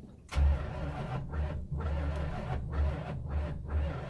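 A 1971 Plymouth Fury's engine on a cold hard start kicks in abruptly about a third of a second in. It keeps turning with an uneven, pulsing rhythm.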